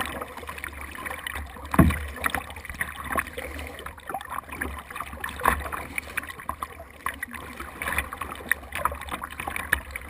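Water splashing and slapping against a small boat's hull, with irregular knocks and a sharp thump about two seconds in.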